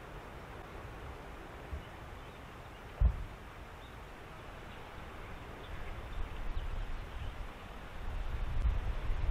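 Outdoor reed-bed ambience: a steady soft hiss, a single low thump about three seconds in, and gusts of wind buffeting the microphone that build toward the end.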